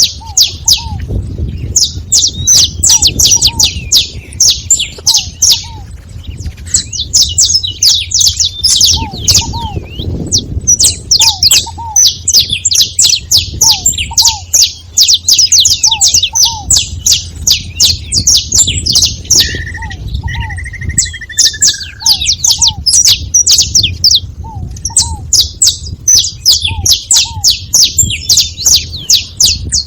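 A group of saffron finches chirping together: fast, dense high chirps almost without pause, with short lower notes repeating among them and a couple of longer, drawn-out notes about two-thirds of the way through.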